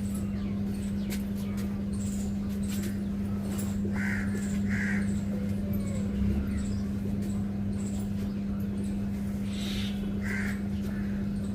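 A steady low hum with a few short bird calls over it: two about four and five seconds in, and another near the end.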